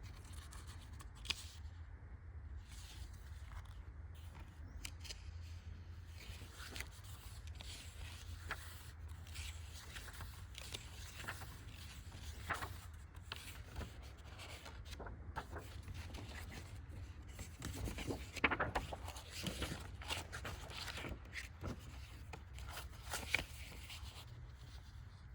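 Paper rustling and scraping as logbook pages are handled and turned, with scattered small clicks, busiest about three quarters of the way through, over a low steady hum.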